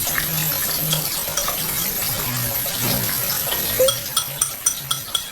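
Tableware clinking: a quick run of light, ringing clinks, several in a row, starting a little under four seconds in.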